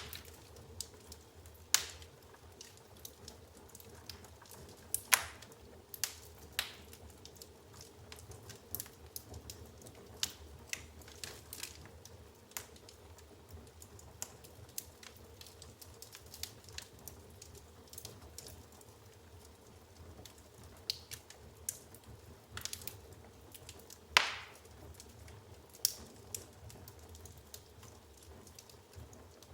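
Firewood burning in an open fireplace, crackling with irregular sharp pops; two louder pops come about five seconds in and some five seconds before the end, over a low steady rumble.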